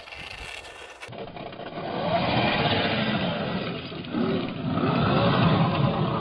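Electric motor and drivetrain of a 1/10-scale Losi Baja Rey RC trophy truck whining, the pitch rising and falling as the throttle is worked, over tyre and dirt noise. It gets louder after a cut about a second in.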